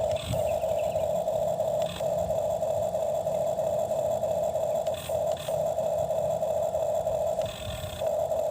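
Toy excavator's small electric motor and gearbox whining steadily at one pitch, cutting out briefly a few times as the motor stops and starts.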